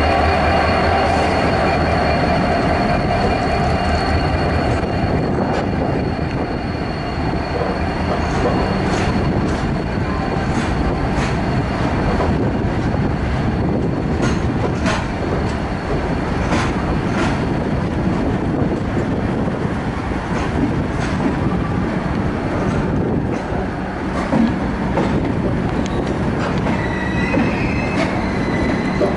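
Rajdhani Express passenger coach running along the track: a steady rumble of wheels on rail, with regular clicks as the wheels cross rail joints and a thin high wheel squeal.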